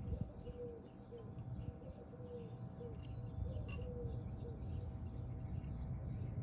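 Outdoor birdsong: one bird repeating short, low arched notes about two to three times a second, with fainter high chirps from other birds over a steady low rumble. A single sharp click sounds about three and a half seconds in.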